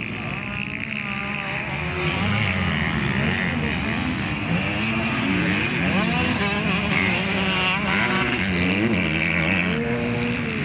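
Several 250 cc motocross bikes racing, their engines overlapping and repeatedly revving up and dropping back as they accelerate and shift.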